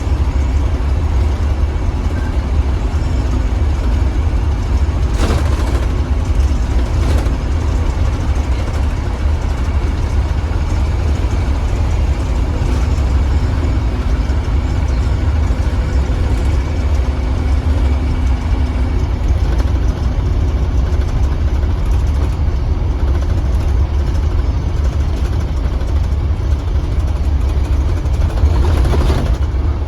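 2015 Blue Bird Vision school bus running, a steady low engine and road rumble heard from inside the cab, with two brief knocks about five and seven seconds in.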